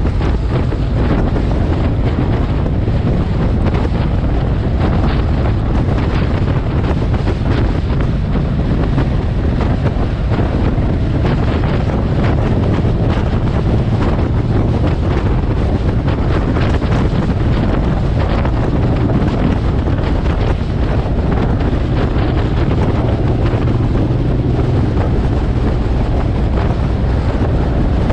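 Steady wind rush buffeting the microphone of a moving motorcycle, with the Suzuki M109R cruiser's engine running underneath.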